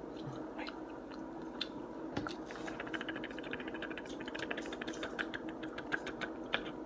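Quiet eating sounds at a table: soft wet clicks and smacks of chewing, with a rapid patter of small ticks through the middle.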